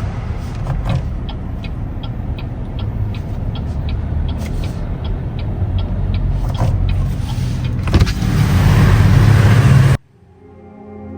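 A car's running noise with evenly spaced ticks, about three a second, for several seconds. The noise grows louder, then cuts off suddenly near the end into soft ambient music.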